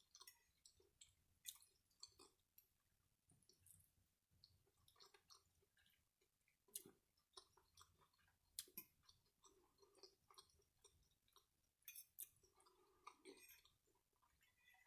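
Faint chewing of food, with small scattered mouth clicks and lip smacks from a person eating.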